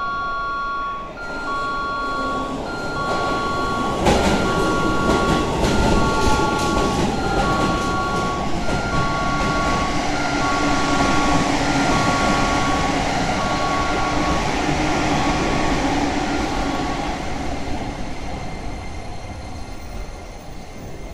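Keisei local train pulling into the platform: a loud rumble of wheels that starts suddenly a few seconds in, with a motor whine falling in pitch as it brakes, then dying away as it stops near the end. Over it a platform's electronic two-tone beep repeats a little faster than once a second, stopping shortly before the train does.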